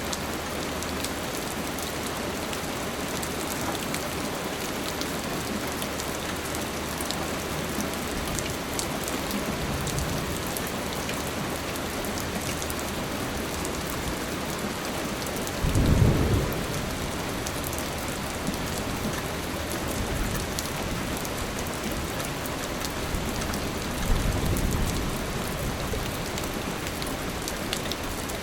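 Steady rain falling, with low rumbles of thunder: a faint one about ten seconds in, the loudest just past halfway, and another near the end.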